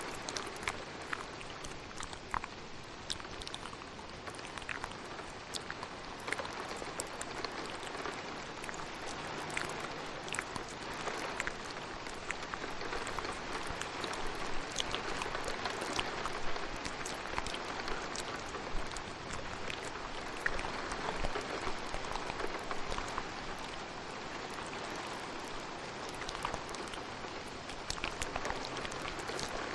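Steady rain falling, with many small scattered clicks and taps throughout.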